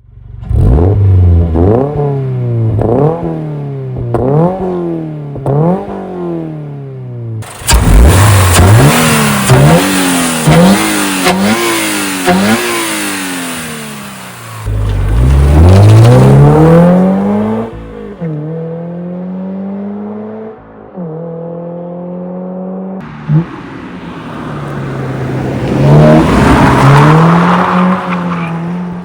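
Toyota GR86's FA24 flat-four engine through a non-resonated Ragazzon GPF-back exhaust and Eventuri intake, revving. It opens with about five quick throttle blips, each rising and falling in pitch, then more revving, a long pull rising in pitch about halfway through, steadier running, and another rise near the end.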